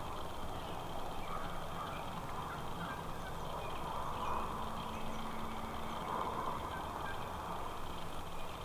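Wild turkeys gobbling, two rolling gobbles about four and six seconds in, over steady outdoor background noise.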